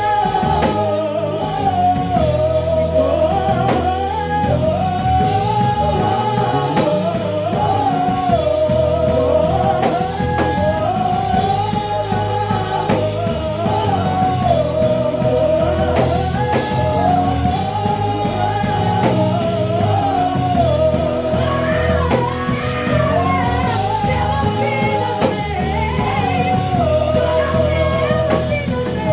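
Live church praise-and-worship music: a band with guitar and drums playing steadily under a singing melody line.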